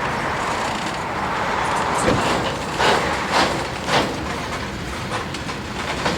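Freight train rolling past, a steady rumble of the cars with four sharp clacks of wheels over rail joints in the middle.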